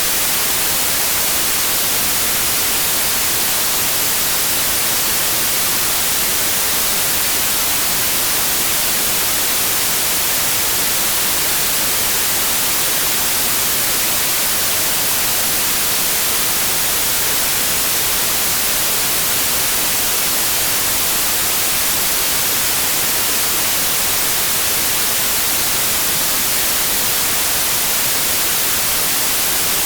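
Steady, loud white noise: an even hiss that never changes.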